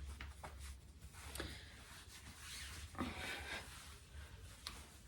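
Faint rustling and handling of clothing fabric, with a few light clicks, over a steady low hum.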